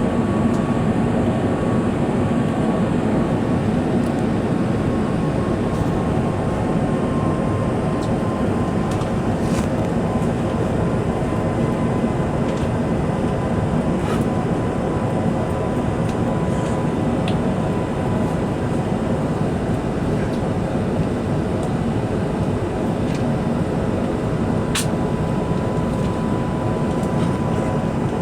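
Steady in-flight cabin noise of an Airbus A380-841: a deep, even rush of engines and airflow with a faint steady whine, and a few light ticks.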